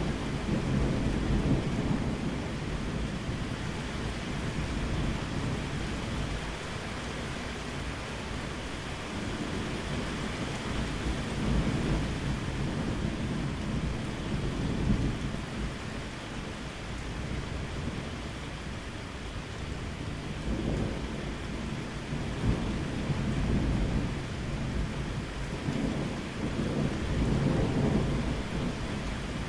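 Steady rain falling through a thunderstorm, with low rolling thunder that swells and fades several times, strongest near the start and near the end.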